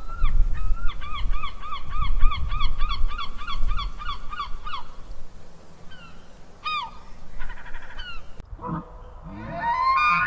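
An animal giving a rapid series of short, pitched calls, about three a second, for the first five seconds, then a few scattered single calls. A different pitched sound begins near the end.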